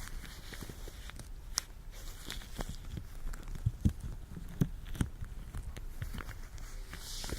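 Latex gloves being handled and rubbed, giving irregular soft snaps and crackles.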